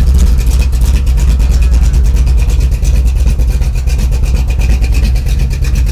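Chevy 383 stroker small-block V8 in a 1983 C10 pickup idling steadily through Flowmaster mufflers, a fast even train of deep exhaust pulses, with a thin steady high whine alongside.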